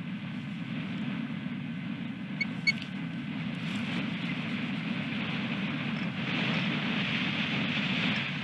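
Wind buffeting the outdoor nest-camera microphone, a steady rushing rumble that grows stronger about six seconds in. Two short high chirps sound about two and a half seconds in.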